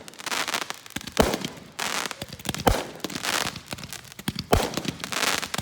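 Consumer fireworks going off: three sharp bangs about a second and a half apart, each followed by crackling.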